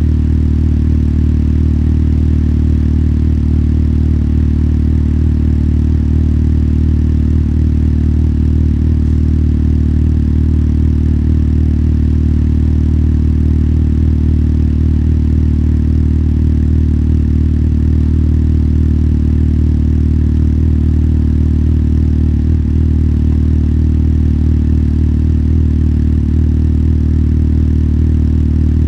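Motorcycle engine running at a low, steady pitch that does not rise or fall throughout.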